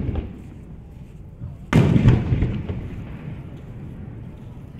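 Aerial firework shells bursting overhead. A bang fades out right at the start, and a loud double bang comes just under two seconds in. Each is followed by a low rolling echo that dies away.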